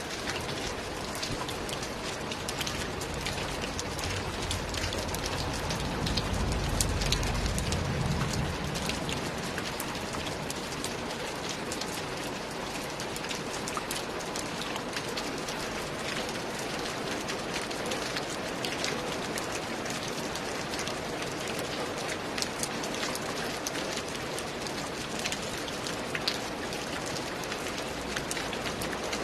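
Steady rain falling, with many sharp individual drop impacts over an even hiss. A low rumble swells for a few seconds about six seconds in.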